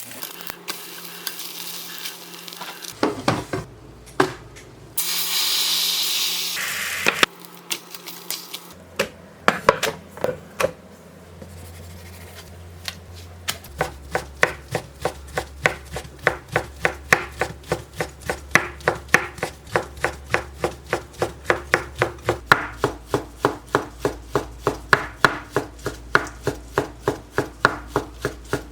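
Knife chopping ingredients on a wooden cutting board: after a stretch of scattered kitchen handling sounds, a steady run of quick chops, about three a second, starts about halfway through.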